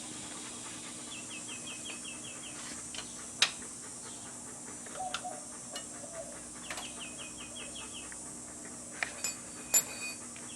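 A bird calling in short runs of rapid, high repeated chirps, three runs in all, over a steady hum. A few sharp clicks stand out above it, the loudest about three seconds in and near the end.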